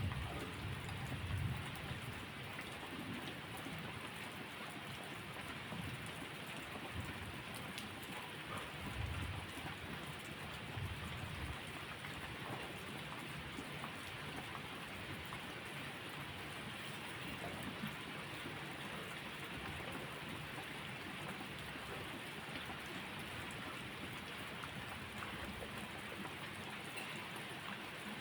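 Steady rainfall, with a low thunder rumble dying away in the first couple of seconds and a fainter rumble about ten seconds in.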